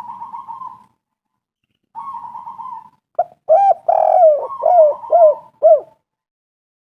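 Spotted dove cooing: two rolling, purring notes, then a quicker run of about five louder, arched coos about three seconds in.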